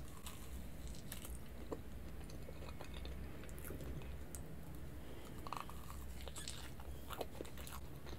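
Close-miked chewing of soft cream cake, with scattered wet smacks and small clicks of the mouth over a steady low hum.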